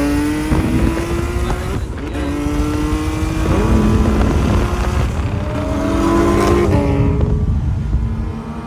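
Car engine accelerating hard, its pitch rising, dropping sharply at a gear change about two seconds in, then climbing again and falling away near the end.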